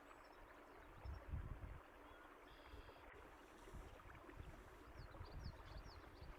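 Faint running water, a steady rush with a few low swells, and a small bird giving short high chirps near the end.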